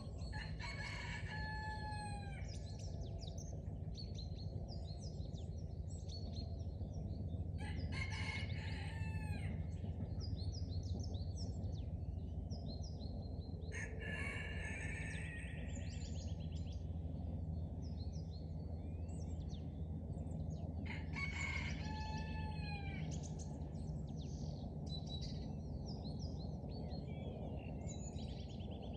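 A rooster crowing four times, spaced several seconds apart, over continual chirping of small songbirds and a steady low background rumble.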